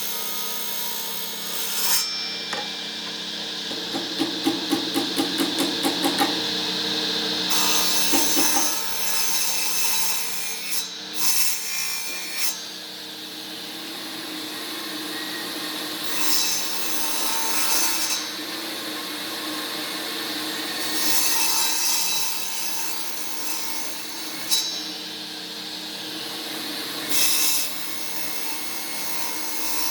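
Wood being worked by hand with rubbing or rasping strokes. A quick run of about ten strokes comes a few seconds in, followed by longer spells of rubbing with short pauses between them.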